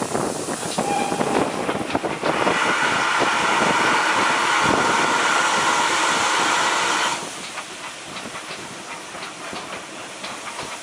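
Steam locomotive, GWR 16xx 0-6-0 pannier tank no. 1638, letting off a loud, even hiss of steam for about five seconds that stops abruptly. Before and after it, the train clicks and rattles on the rails.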